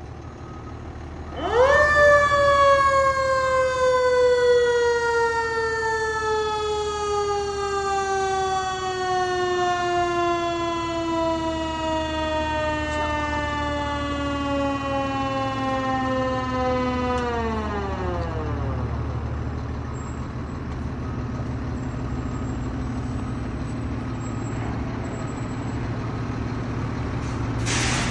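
Federal Q mechanical siren on a fire engine, given a short "friendly Q": it winds up quickly to a high wail, then coasts down slowly in pitch for about fifteen seconds before dropping off fast and dying out. The fire engine's motor rumbles steadily underneath, and a short loud crack comes near the end.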